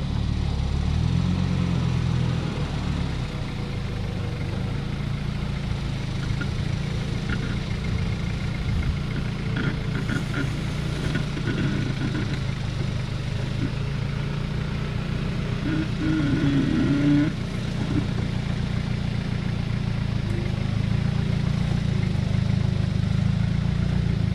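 Modified Toyota Hilux's 3.0 turbo-diesel engine running at low revs while rockcrawling, with a few knocks and rattles from the truck about halfway through.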